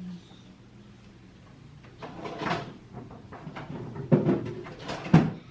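Objects being handled: a short rustling clatter, then two sharp knocks a second apart, the second the loudest.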